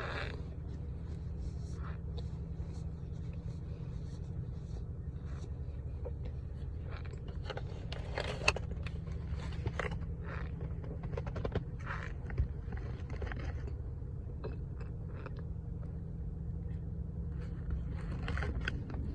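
Cornstarch being bitten and chewed: scattered crisp crunches and crackles, with a couple of sharper bites about eight and twelve seconds in, over a steady low hum.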